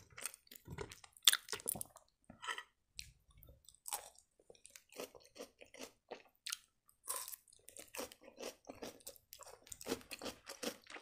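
Close-miked chewing and crunching: a person biting and chewing yellow vegetable strips dipped in sour cream, with many small irregular crunches and wet mouth clicks.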